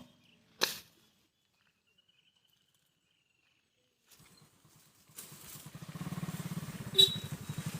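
A single sharp knock, then from about five seconds in a small engine running with a rapid, even pulse, and another sharp knock near the end.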